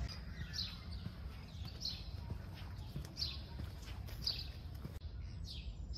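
A bird calling repeatedly: short, falling chirps about one a second, over a low background rumble.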